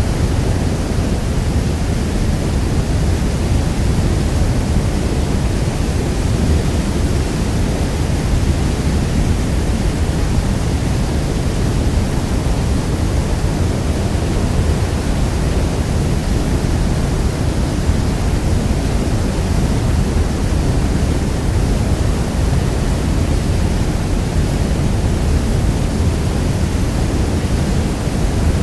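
Niagara Falls' thundering water: a deep, steady roar of falling water that holds even throughout.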